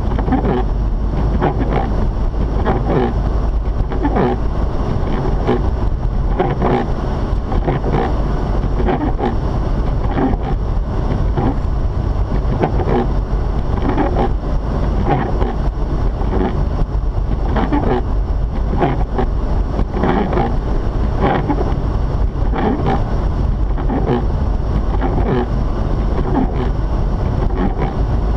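Mazda RX-8 driving on a snowy road, heard from inside: a steady low rumble of road and tyre noise with frequent small irregular knocks.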